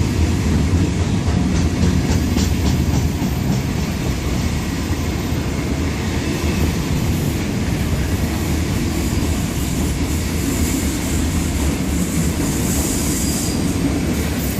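Wagons of a long, heavy freight train rolling past, their wheels clacking steadily over the rail joints with a continuous low rumble.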